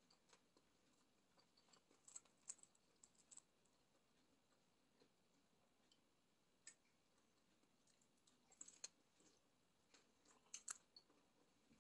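Faint crunching and small mouth clicks from chewing battered fried food, coming in a few short clusters with near silence between.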